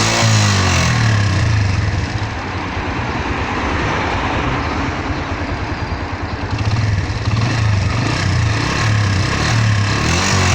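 Suzuki EN 125 single-cylinder four-stroke motorcycle engine running with its revs changing: strong at the start, easing off about two seconds in, and picking up again about seven seconds in. The engine is revved to show a vibration followed by a fairly sharp metallic noise that sets in from about 4300–4500 rpm, whose cause the owner has not found.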